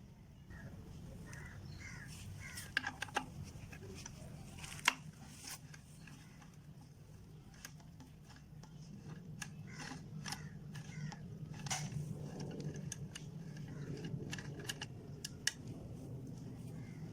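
Scattered light clicks and knocks, as of parts or tools being handled, over a steady low hum.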